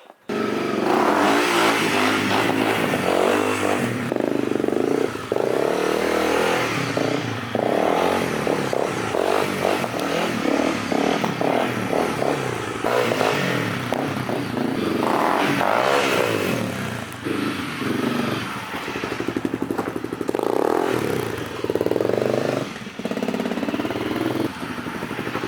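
Dual-sport motorcycle engine running while the bike is ridden, revving up and easing off again and again, its pitch rising and falling.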